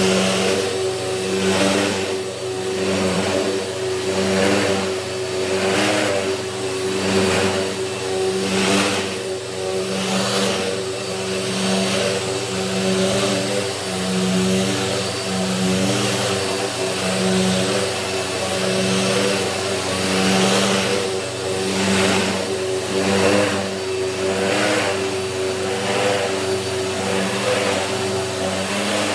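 Dirt Devil vacuum cleaner running at full speed, its brushroll driven by a freshly fitted belt. The motor's steady whine swells and eases about once a second as the vacuum is pushed back and forth over a mattress.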